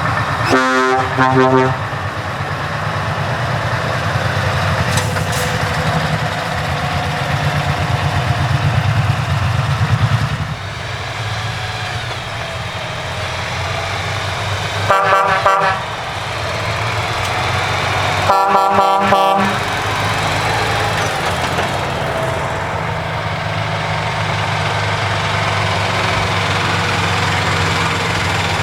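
Truck horn blasts over a heavy truck engine running steadily: two short toots right at the start, then a blast about halfway through and a longer one a few seconds later.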